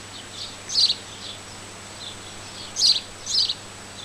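A small bird chirping: a few short, high chirps spaced irregularly, over a faint steady hum.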